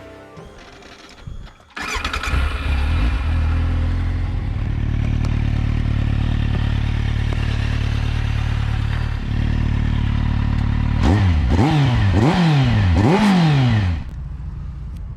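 Kawasaki Z750's inline-four engine starting up a couple of seconds in and settling into a steady idle. Near the end it is revved three times in quick blips, then the sound drops abruptly to a lower rumble.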